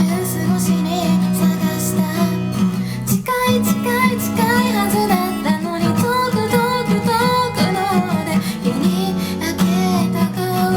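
A woman singing a ballad while strumming an acoustic guitar.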